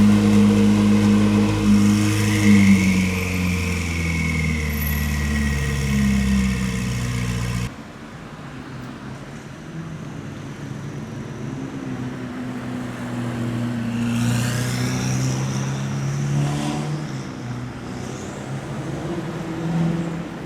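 Supercar engine running at a steady idle, loud and even. After a sudden cut, a quieter engine note rises as a car accelerates.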